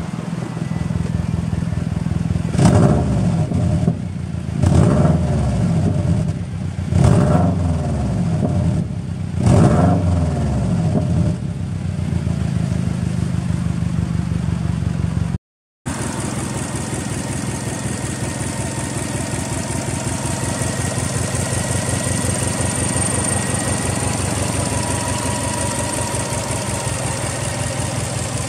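Subaru Impreza WRX's EJ20 turbocharged flat-four idling through an aftermarket muffler, blipped four times in quick revs over the first ten seconds or so. After a brief cut it is heard idling steadily from the engine bay.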